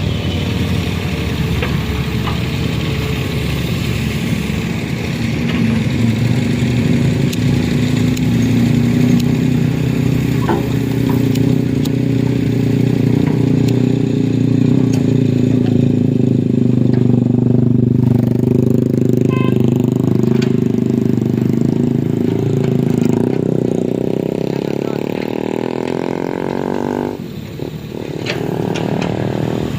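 A vehicle engine running steadily at close range, its pitch drifting slowly. It drops away briefly near the end, then picks up again.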